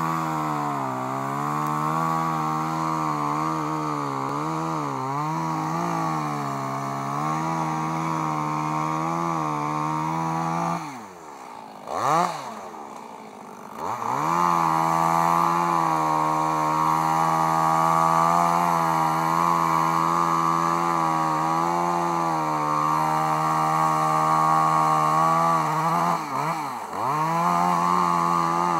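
A small engine running at a steady high speed; about eleven seconds in its speed drops sharply, blips and picks up again, and it dips briefly once more near the end.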